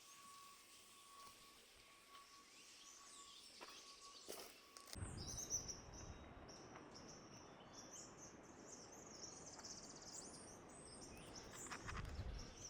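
Faint outdoor ambience with many small birds chirping. For the first five seconds there is only a faint steady high tone over near silence; then a steady hiss sets in abruptly, with the bird chirps over it.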